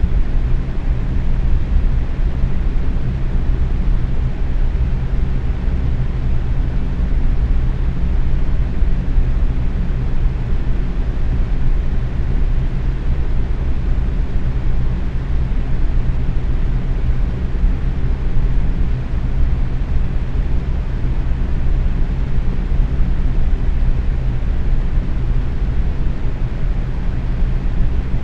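Box fan running steadily at medium speed: an even, low whooshing of moving air with a faint hum underneath.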